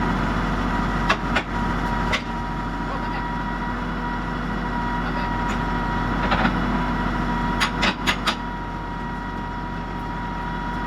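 Tractor engine running steadily at idle, with several short, sharp knocks: three in the first couple of seconds, one about six seconds in, and a quick run of four near eight seconds.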